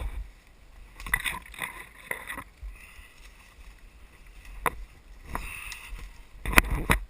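A hiker's footsteps and leaves and branches rustling against him as he pushes through thick forest undergrowth, in irregular bursts, the loudest near the end, over a low rumble from the moving camera.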